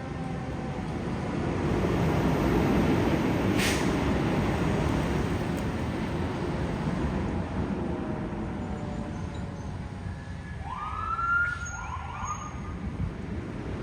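Fire engine passing on the road, its engine and tyre noise swelling for a few seconds and then easing off. Near the end come two short rising siren tones.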